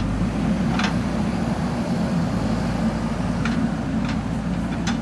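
JCB 3DX backhoe loader's diesel engine running steadily, with about four short sharp knocks spread through.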